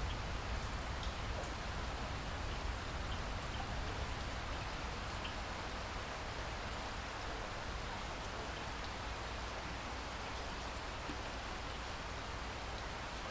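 Steady rain falling, with faint scattered ticks of single drops over an even hiss and a low rumble underneath.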